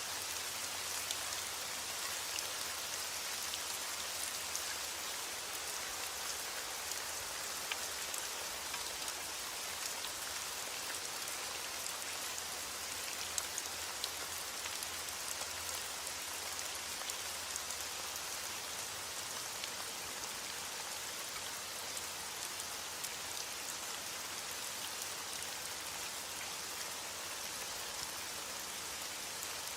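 Steady rain falling: an even, continuous hiss with scattered individual drops ticking through it.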